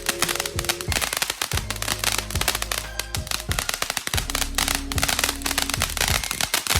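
Consumer firework on the ground crackling and popping rapidly in a dense string, over background music with steady notes.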